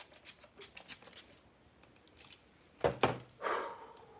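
Hands rummaging through packets and boxes of incense: a quick run of small clicks and rattles, then two louder knocks and a rustle about three seconds in.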